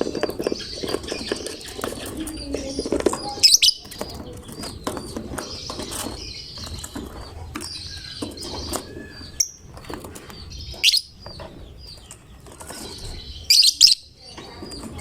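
Lovebird chirping rapidly and continuously, broken by several loud, shrill screeching calls, with rustling and fluttering alongside.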